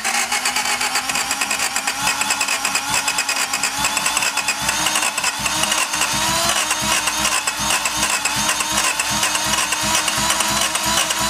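Honda CRX inline four-cylinder engine catching on a start attempt and running with a fast, ticking mechanical clatter, its speed creeping up slightly.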